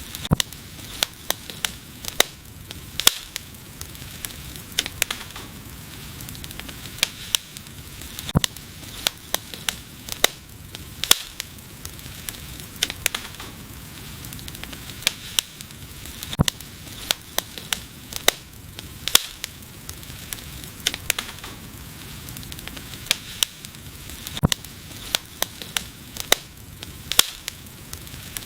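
Wood fire crackling: sharp, irregular pops and snaps over a soft, steady hiss.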